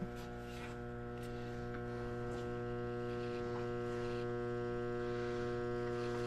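Old electric silage feed cart running, giving a steady electric hum.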